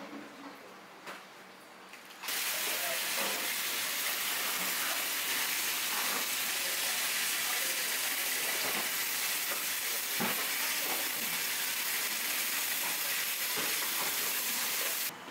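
Food frying in hot oil: a steady, loud sizzle that cuts in suddenly about two seconds in and holds until near the end, with a few soft knocks beneath it.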